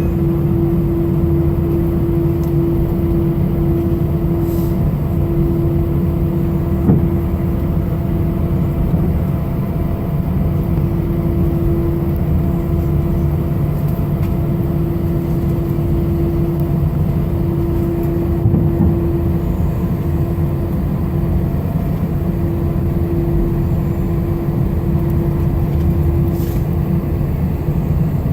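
Airliner cabin noise: the jet engines and airframe make a steady, loud low rumble with a constant hum.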